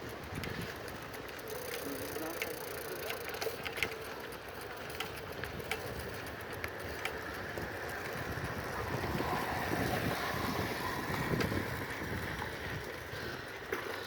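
Bicycles rolling along a path: steady tyre and wind noise with scattered light clicks and rattles, growing a little louder past the middle.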